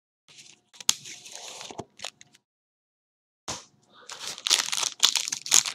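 Trading card packaging torn and crinkled open by hand, in two spells of irregular crackling with sharp snaps; the second, near the end, is the louder and denser.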